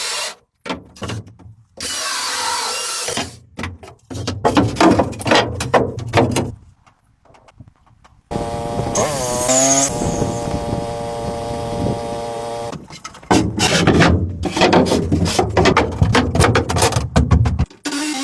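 Power tools working wood, heard as a series of short clips that start and stop abruptly. About eight seconds in, one tool's motor runs with a steady hum for several seconds.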